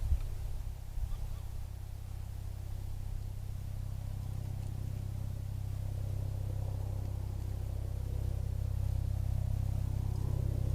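Steady low rumble of a distant engine, growing a little louder toward the end.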